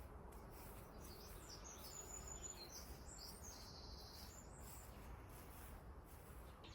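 Faint birdsong: scattered high chirps and short trills over a low, quiet background rumble.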